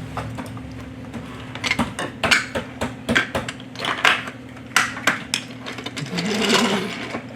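Toy train pieces and track clicking and clattering as they are handled, a quick run of small sharp knocks over a faint steady hum.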